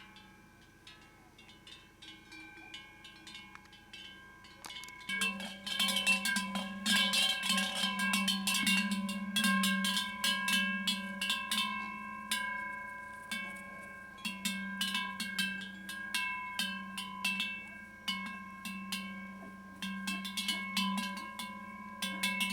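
Several cowbells ringing continuously with many rapid clapper strikes, swelling louder about five seconds in.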